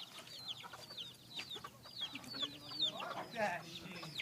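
Chickens in a coop: a string of short, high, falling peeps, with a lower, louder call around three seconds in.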